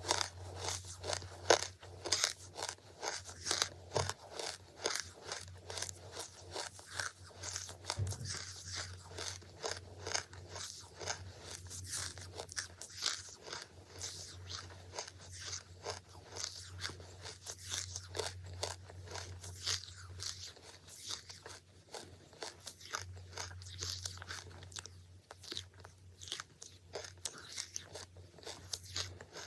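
Charcoal being bitten and chewed close to the microphone: a dense, irregular run of dry, brittle crunches, sharpest in the first couple of seconds, over a steady low hum.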